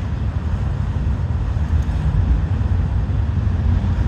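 Freight train cars rolling past at close range: a steady low rumble of steel wheels on the rails.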